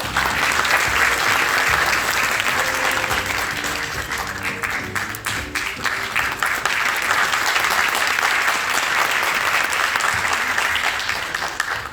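Audience applauding, with steady clapping that fades away near the end.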